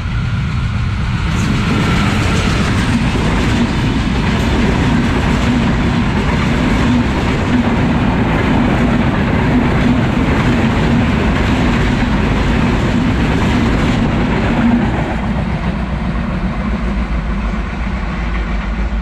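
Benapole Express passenger train of Bangladesh Railway passing close by at speed: a continuous loud rush of coaches and wheels on the rails, with a steady low hum through most of the pass. The sound eases slightly near the end as the train moves away.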